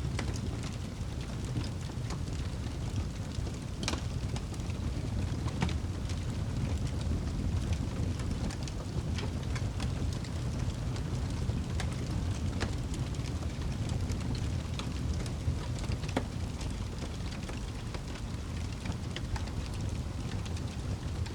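Wood fire burning in a fireplace: a steady low rumble with scattered crackles and pops at irregular intervals.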